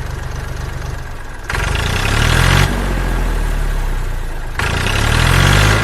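Tractor engine idling with an even low chug, then revving twice, each rev rising in pitch; the first rev cuts off suddenly.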